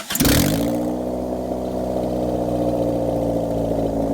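Honda F22B2 2.2-litre four-cylinder catching right at the start after a short crank, then idling loud and steady, its pitch settling down slightly in the first moment. It runs on freshly fitted headers with no working exhaust behind them, which makes it louder.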